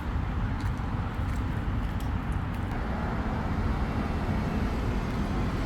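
Road traffic: a steady low rumble of vehicles on a street, with a few faint ticks.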